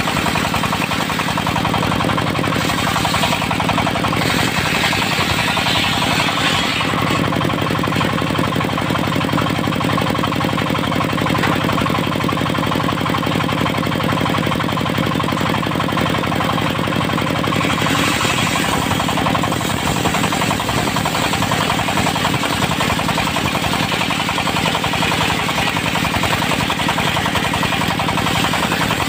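Diesel engine of a mobile circular sawmill running steadily under load with a fast, even knocking beat, driving the saw blade. The blade's cutting noise through the teak swells twice, about five seconds in and again near eighteen seconds.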